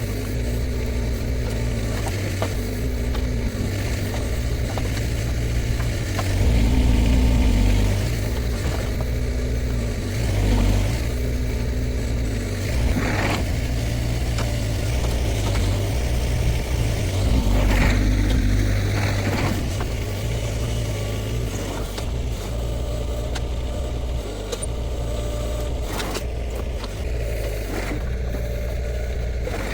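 Shantui STE35SR mini excavator's diesel engine running steadily, swelling louder under hydraulic load several times, about 7, 10, 12 and 18 seconds in. A few knocks come through over the engine.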